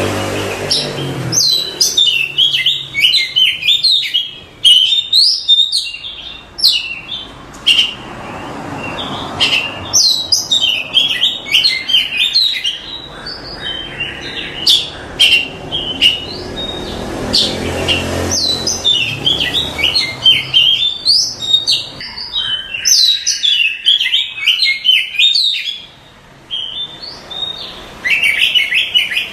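Oriental magpie-robin (kacer) singing: long, rapid phrases of varied chirps and whistles, broken by short pauses and one longer pause near the end.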